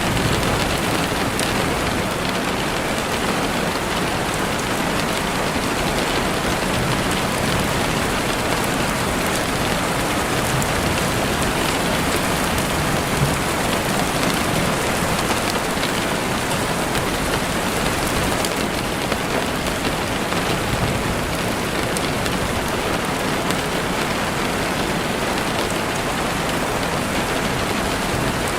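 Steady rain falling on foliage and ground, an even hiss that does not change, with a few faint isolated pops.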